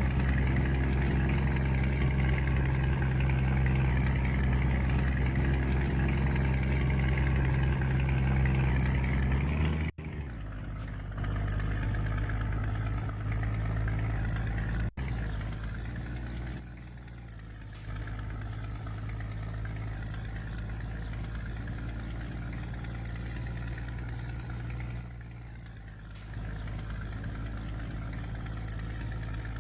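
Scania G124 truck's diesel engine running steadily, a low, even engine tone. The sound changes abruptly twice, about a third of the way in and again about halfway, dropping in level each time.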